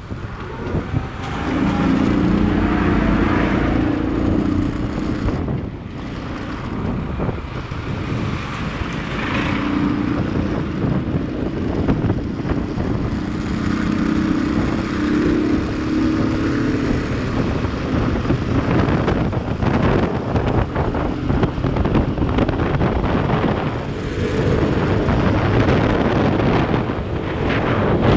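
Wind buffeting the microphone on a moving motorcycle, with the engine's steady hum coming and going under the rush.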